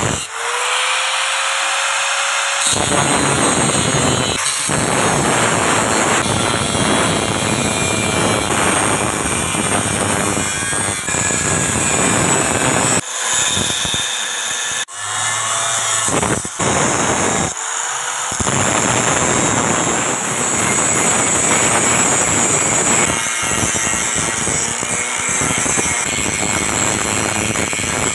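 Electric power tool working steel, running with a dense, harsh noise that breaks off and restarts several times. Its motor's whine rises as it spins up just after the start and again about 17 seconds in.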